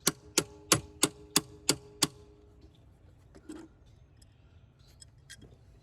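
Seven sharp metallic clicks in a steady rhythm, about three a second, each with a brief ring, then a couple of fainter clicks near the end: hand tools working on metal engine parts.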